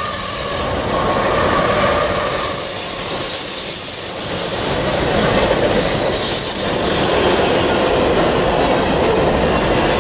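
Freight train cars rolling past on steel rails, a steady rumble and clatter, with thin high-pitched wheel squeals near the start and again about halfway through.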